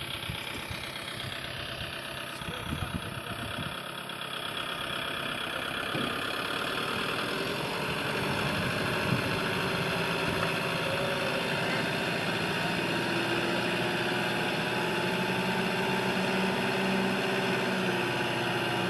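Kubota MU5501 tractor's diesel engine running steadily, growing somewhat louder a few seconds in and then holding steady.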